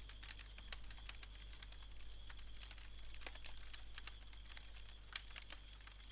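Faint, irregular crackling clicks over a low steady hum and a thin steady high tone.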